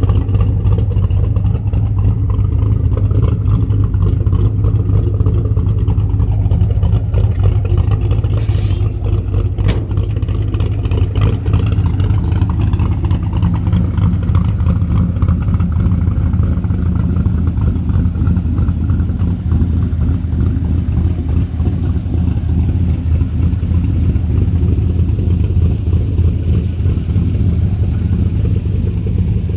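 Twin-turbo all-aluminium 5.3-litre LS V8 idling steadily, a strong low rumble. A brief sharp knock cuts in about nine seconds in.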